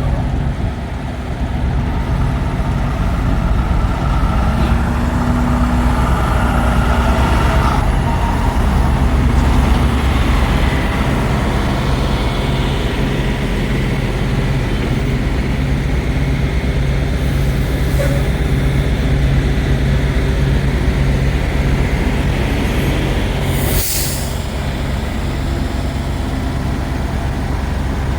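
Semi-truck's diesel engine running steadily with a low drone, and a short sharp hiss of air, like an air brake releasing, about 24 seconds in.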